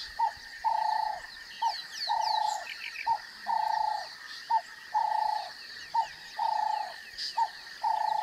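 A bird calling over and over in pairs of notes, a short note followed by a longer held one, about six pairs spaced roughly a second and a half apart, over a steady high-pitched drone.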